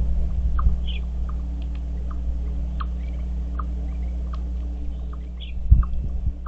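Birds chirping, short notes repeated about twice a second with a few higher calls mixed in, over a steady low hum. A few dull knocks come near the end.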